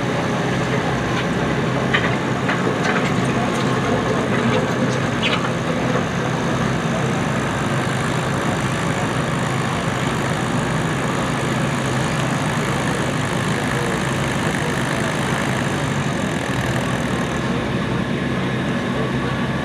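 Allis-Chalmers WD-45 tractor engine running steadily under load while pulling the weight-transfer sled. A few sharp clicks sound in the first few seconds.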